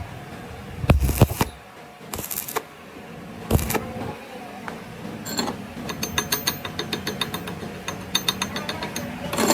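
Hand tools working on metal machine parts: a few heavy knocks, then from about halfway a rapid, even run of sharp metallic clicks.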